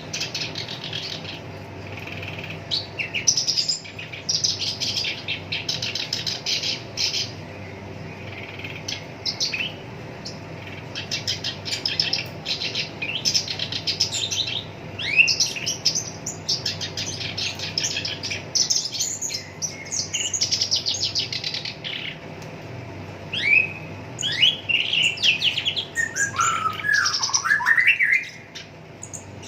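Black-browed reed warbler singing in phrases of rapid repeated notes separated by short pauses, with a few lower, falling notes near the end.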